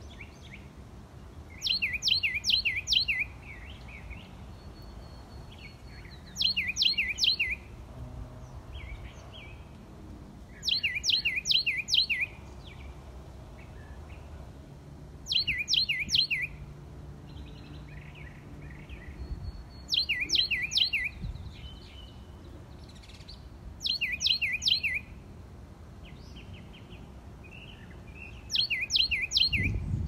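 A songbird singing at dawn, repeating the same short song phrase seven times, about every four and a half seconds. Each phrase is a quick run of high whistles that each slide downward, with softer chirps from other birds between the phrases.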